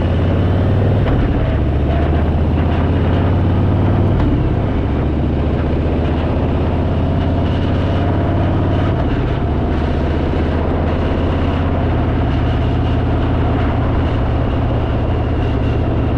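Harley-Davidson V-twin motorcycle engine running on the move, heard from the bike with wind and road noise. The engine note steps to a new pitch a few times, about four, nine and twelve seconds in.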